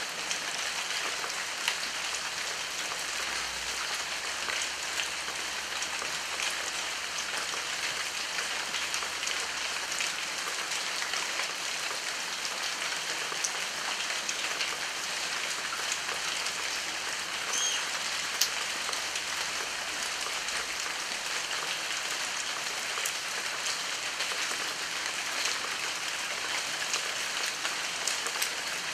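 Steady heavy rain falling, with many separate drop hits.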